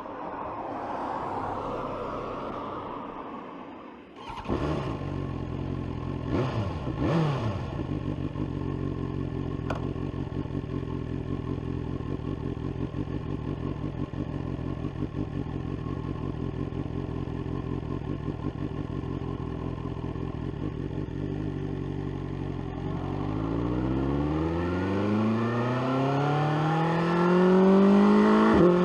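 BMW S1000R's inline-four engine, with an SC-Project exhaust, starting up about four seconds in. It is blipped twice soon after, then idles steadily. Near the end it pulls away, the engine note climbing steadily in pitch and getting louder.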